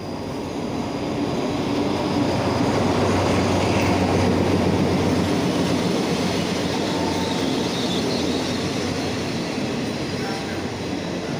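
State Railway of Thailand diesel-hauled passenger train running past close by. A low engine drone swells and fades out about five seconds in, then the coaches' wheels run by on the rails with a few faint metallic squeals.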